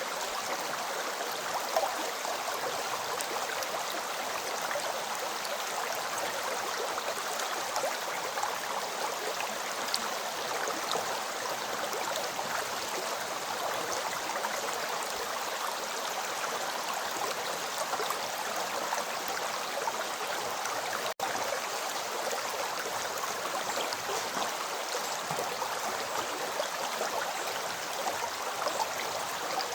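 River water flowing in a steady, even rush. The sound cuts out for an instant about two-thirds of the way through.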